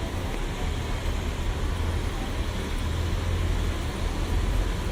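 City street traffic: a steady low rumble of motor vehicles under a continuous hiss, swelling slightly about three seconds in.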